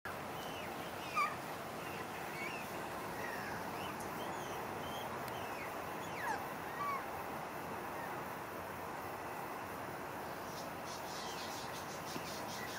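Birds chirping with short whistled notes and quick pitch glides, scattered throughout over a steady background hiss. A quick run of high ticking notes comes near the end.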